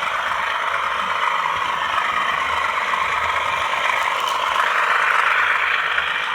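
Bachmann Class 37 model locomotive running on the track, its DCC sound decoder playing a steady diesel engine sound through the small onboard speaker, with the mechanism and wheels running. The owner finds the speaker weaker than expected and notes vibrations coming from it.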